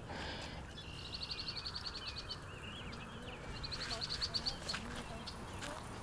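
A songbird singing outdoors: a rapid, high trill twice, about a second in and again around the middle, with a few short chirps between.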